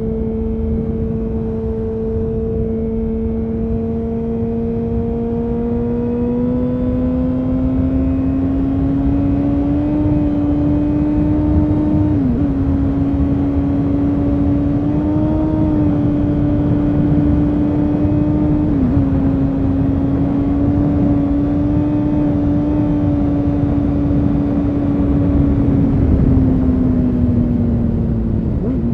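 2000 Honda CBR929RR Fireblade's inline-four running through an Erion Racing full exhaust while riding. The engine note climbs slowly for about ten seconds, then holds steady, with three or four brief dips as the throttle is eased, over a low rushing noise.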